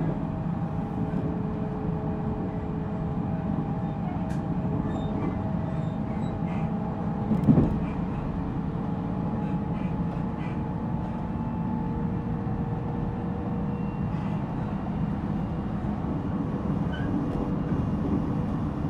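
Cabin running sound of a JR Central 313 series 0 electric multiple unit, heard inside the motor car: steady wheel-and-rail rumble with a faint, steady traction-motor hum while cruising. A single louder knock sounds about seven and a half seconds in.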